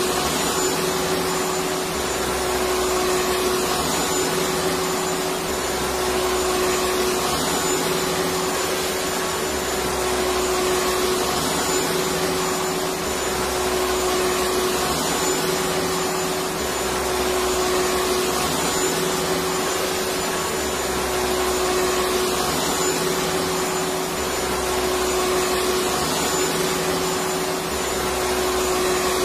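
Electric vacuum cleaner running continuously: a steady whirring hiss with a constant whine, and a low throb that comes and goes about every two seconds.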